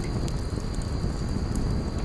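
Wood fire burning, crackling: a steady low rumble of flames with many small sharp pops scattered through it.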